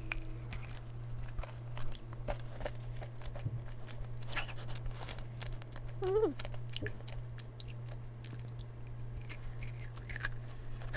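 Close-up chewing and biting of a crispy yakgwa (Korean honey-fried cookie), with crisp crunches scattered throughout, over a steady low hum. A brief hum of the voice comes about six seconds in.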